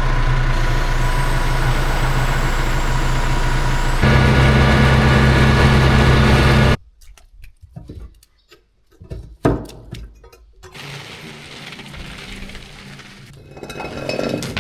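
An engine running steadily, getting louder and deeper about four seconds in, then cutting off suddenly. A few knocks and clicks follow, then a quieter steady noise.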